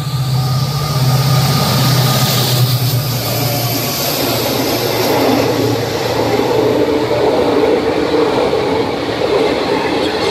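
An EMD diesel-hauled express train passing close at speed. A low engine drone lasts for the first few seconds as the locomotive goes by. Then comes a steady rush of wheel and rail noise from the passenger coaches.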